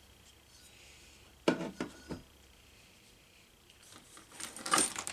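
A few sharp clicks and knocks, then a short cluster of brighter clinks near the end, as hard parts of a desoldering station and its iron stand are handled on a workbench.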